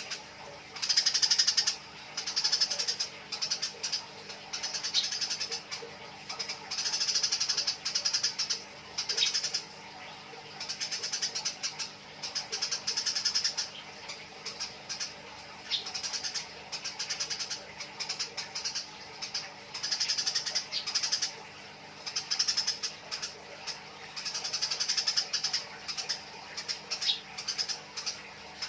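Eurasian tree sparrows giving harsh, rapid chattering calls while fighting, in repeated high-pitched bursts of about a second each with short gaps between.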